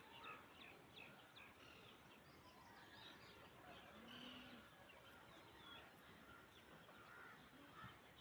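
Faint scattered bird chirps over a steady background hiss, with one short low call about four seconds in.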